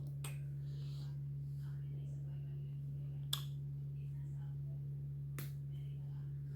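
Steady low hum with three sharp clicks, the loudest a little past three seconds in.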